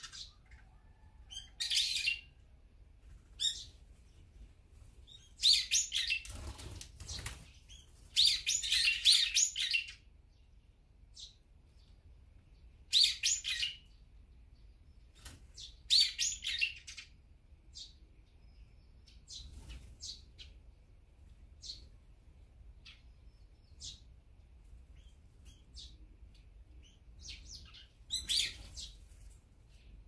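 Garden songbirds calling: several loud, harsh call bursts a second or so long, with many faint short chirps in between. A brief rustle about seven seconds in.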